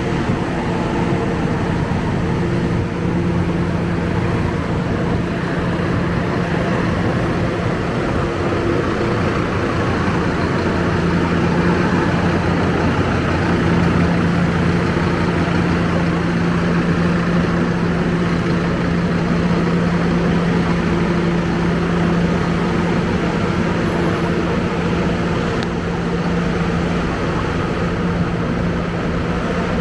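Scania K270UB bus's diesel engine idling with a steady low hum, rising and falling slightly in level.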